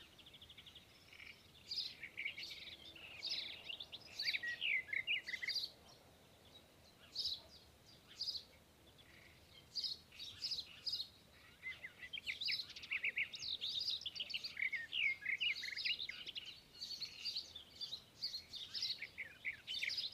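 Small birds chirping and twittering in quick, overlapping flurries of short high notes, with a few brief lulls.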